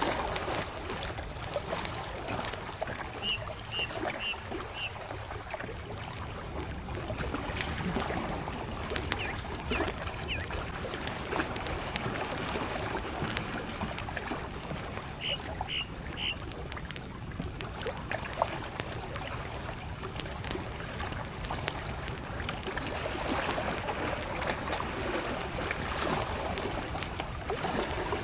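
Small lake waves lapping at the shore, with a wood campfire crackling in scattered sharp pops. A bird gives a quick run of four high chirps a few seconds in and three more about halfway through.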